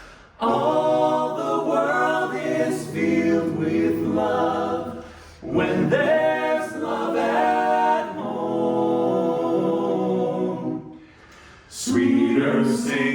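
A group of men's voices singing a hymn a cappella in close harmony, in three phrases with short breaks between them, about five seconds in and near eleven seconds.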